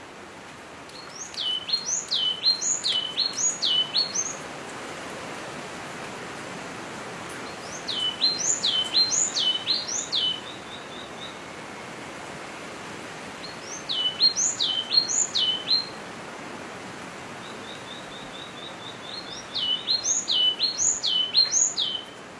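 Yellow-cheeked tit singing: four phrases, each a string of repeated high swooping notes lasting two to three seconds, a few seconds apart, over a steady hiss.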